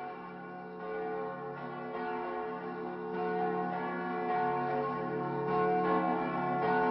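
Church bells ringing, several bells struck in turn about once a second, growing steadily louder. They are the intro to a heavy metal song in the soundtrack.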